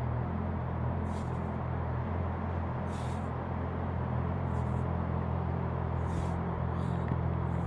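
Honda CB650R inline-four engine running steadily at low revs, with a few short hisses over it.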